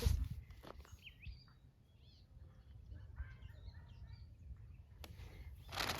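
Faint outdoor ambience: a few scattered bird chirps over a low steady background rumble, with a brief click near the end.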